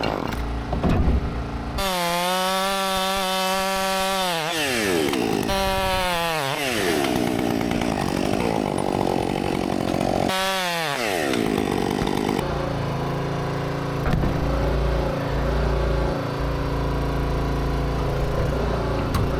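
Chainsaw running at high revs, its pitch falling sharply each time the throttle is let off, three times. From about twelve seconds in, a steadier, lower engine note with a deep rumble carries on.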